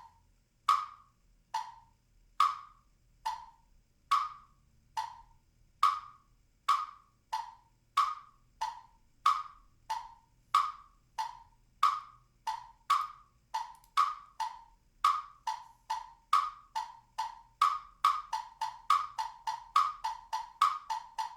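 Metronome recording clicking a steady beat, the clicks alternating between a higher and a slightly lower pitch. The clicks come about once every 0.7–0.8 s, and speed up to nearly twice as fast over the last few seconds.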